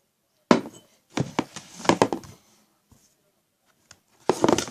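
Homemade slime being worked with a spoon in a bowl as borax water is added. There is a knock about half a second in, then sticky squelching and crackling in short spells, busiest near the end.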